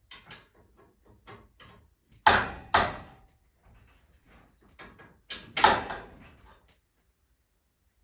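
Clatter and knocks of hardware being handled during garage door work: a run of light knocks, with two pairs of loud bangs about two and five seconds in.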